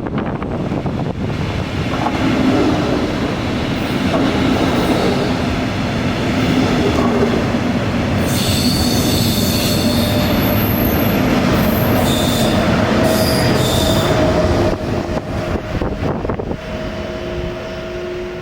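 Double-deck regional express train, pushed by a Class 182 electric locomotive, running along the platform. Its wheels squeal at a high pitch from about eight to fourteen seconds in. The rail noise then drops away near the end, leaving a steady hum.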